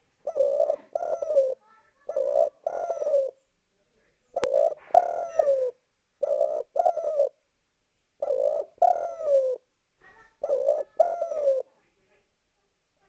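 Spotted dove cooing in repeated short phrases of two or three notes, each note sliding down in pitch, with short pauses between phrases.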